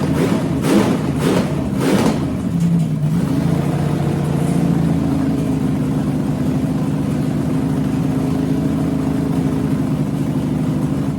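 350 Chevy small-block V8 with 6-inch rods running on its first start, with four sharp bursts in the first two seconds, then running steadily at a raised idle. It doesn't like to idle.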